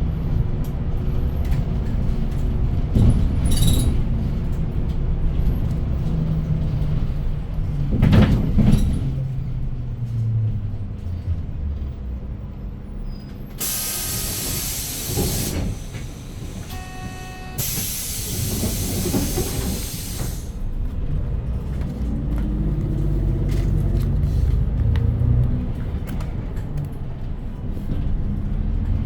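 City bus engine running, slowing, then pulling away again, with two loud bursts of compressed-air hiss a few seconds apart about halfway through, from the bus's air system at a stop. Between the two hisses comes a short run of electronic beeps.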